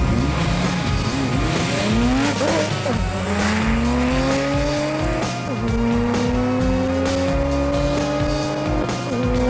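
Porsche 911 Turbo (997) accelerating flat out from a standing start, its twin-turbo flat-six climbing in pitch through the gears, each upshift dropping it back, with longer climbs in the higher gears. Background music with a steady beat runs underneath.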